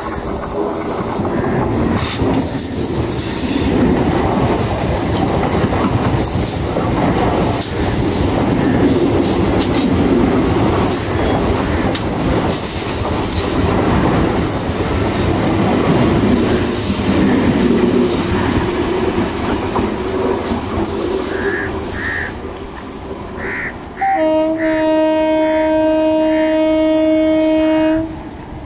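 Indian Railways EMU local train running past close at speed: wheels rumbling and clacking over the rail joints, with short high wheel squeals. About 24 seconds in, an oncoming EMU sounds one long, loud horn blast lasting about four seconds.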